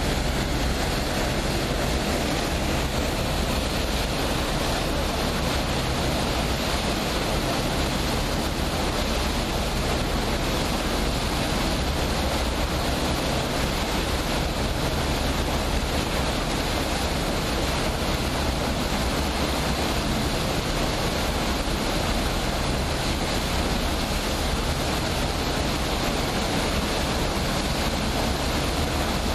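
Steady low drone of a passenger boat's engine under a continuous rush of water and wind.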